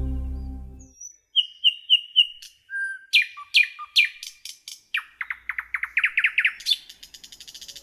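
A songbird singing a varied phrase of short chirps, whistled notes and downward-sweeping calls, ending in a fast run of repeated notes. A sustained piano chord fades out during the first second.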